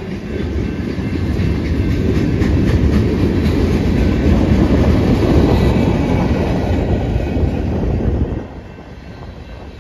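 Freight train rolling past at close range, the cars' wheels rumbling steadily on the rails. The sound drops off sharply about eight seconds in.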